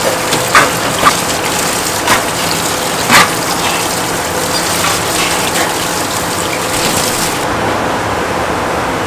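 Water running or gushing steadily, with a few sharp clacks in the first three seconds or so. The hiss of the water drops off about seven seconds in.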